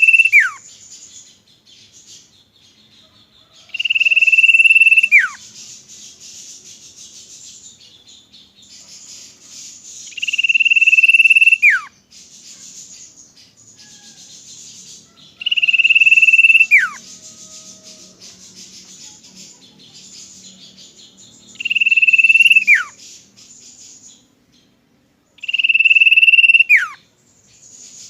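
Common iora (cipoh) giving its long whistled call: a steady high note held for about a second that drops sharply at the end, repeated every five to six seconds.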